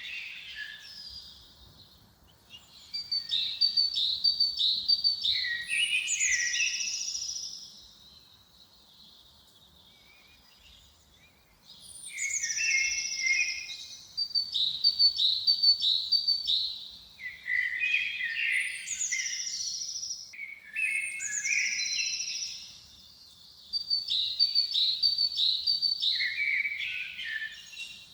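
A songbird singing in phrases of a few seconds with pauses between them. Each phrase opens with high notes sliding down, runs into a quick series of repeated notes, and ends lower.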